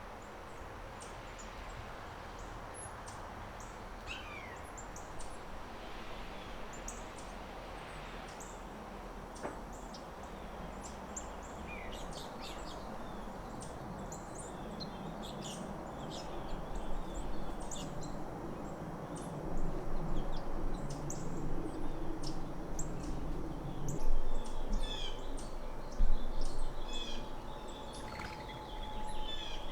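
Small birds chirping, with many short high calls scattered throughout, over a steady background hiss. From about halfway a low rumble grows louder, and there are two loud thumps near the end.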